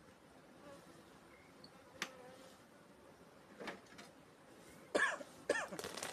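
Honeybees buzzing around an opened hive that has been smoked to calm them, with a sharp click about two seconds in and two short louder sounds near the end.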